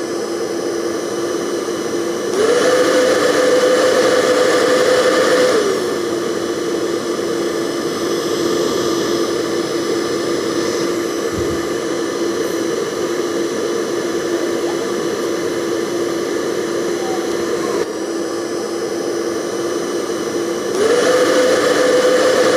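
Hair dryer running steadily, its motor whine over the rush of blown air. About two seconds in it steps up to a higher speed for a few seconds, the whine rising in pitch and the air louder, then drops back; it steps up again near the end.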